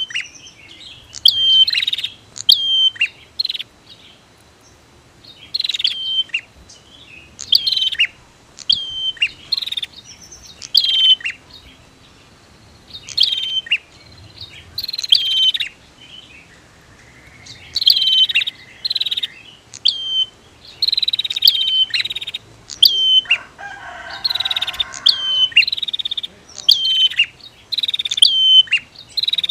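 Prinia (prenjak) calling: short phrases of sharp, high, downward-slurred notes, repeated with brief pauses. A lower rasping buzz comes in about two-thirds of the way through.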